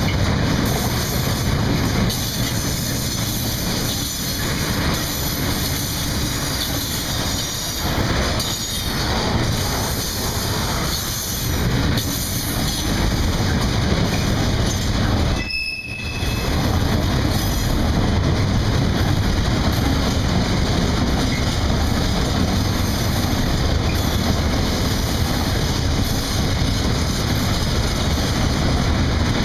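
Freight wagons of a long mixed freight train rolling past close by: a steady rumble and rattle of steel wheels on the rails, with a few clicks in the first half and a brief dip in the sound about halfway.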